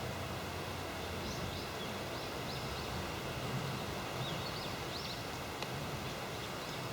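A small bird chirping: two brief clusters of short, quick high calls over a steady background hiss with faint constant tones.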